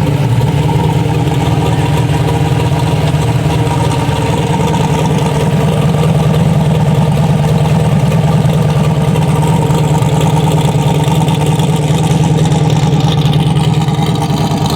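Truck engine idling loudly and steadily, holding an even pitch with no revving.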